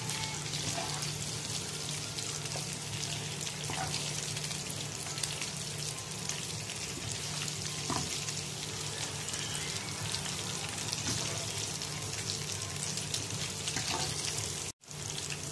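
Chicken pieces sizzling and crackling in hot oil in a wok, with a plastic spatula scraping and stirring as the pieces are lifted out. A steady low hum runs underneath, and the sound cuts out for a moment near the end.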